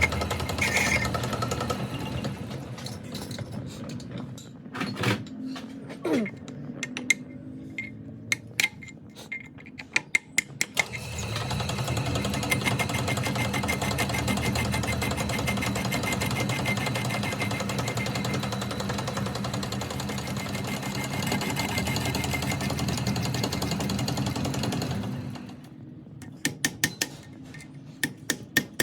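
Workshop tool work: scattered metal clicks and knocks, then a power tool's motor running steadily for about fourteen seconds and stopping. Near the end come rapid, evenly spaced hammer taps on metal.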